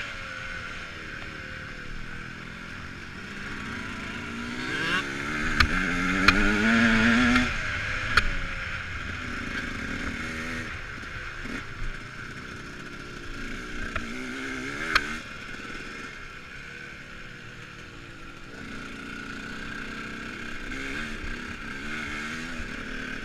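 Dirt bike motors rising and falling in pitch as they are ridden and revved, loudest about five to eight seconds in, with a few sharp clicks or knocks.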